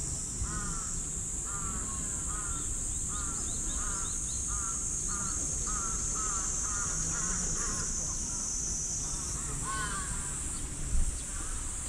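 A bird calling over and over, short calls at about two a second, with a steady high-pitched hiss behind. A brief thump near the end.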